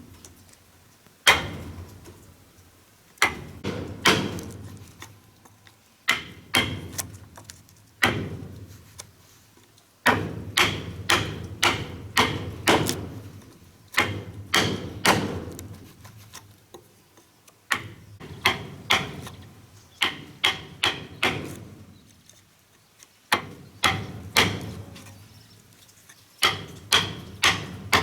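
Repeated blows of a tool on wood, in short runs of a few strikes about two or three a second, with brief pauses between the runs.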